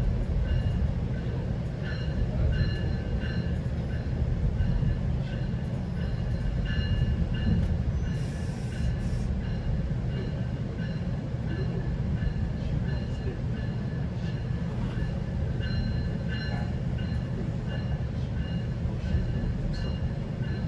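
GO Transit passenger train with a steady low rumble, and faint high-pitched squeals from the wheels or brakes coming and going.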